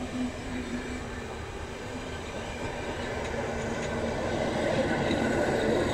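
Passenger coaches rolling past on the track, a steady rumble of wheels on rails that grows a little louder toward the end as the last coach goes by.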